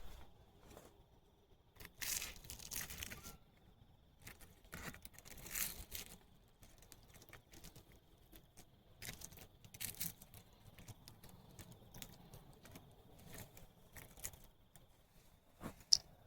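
A utensil breaking into and scraping at the crust of a baked pie, with crackling of pastry in short, uneven bouts and one sharp click near the end.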